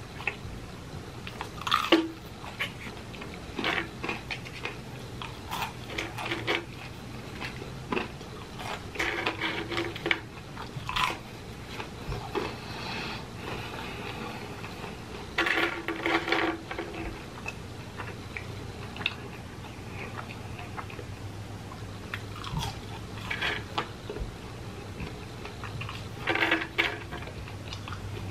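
A person eating close to the microphone: irregular bites and chewing of fast-food fries, with a steady low hum underneath.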